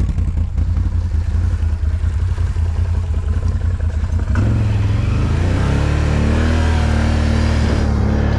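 ATV engine idling with a pulsing rumble, then revved up about four seconds in, its pitch rising and then holding steady at higher revs.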